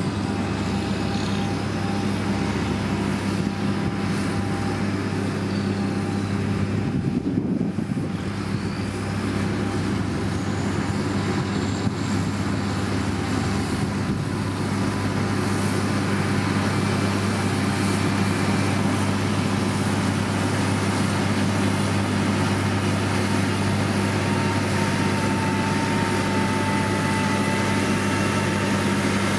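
Heavy diesel engine of a motor grader running steadily under load, a constant low hum, with a faint whine rising in over the last few seconds.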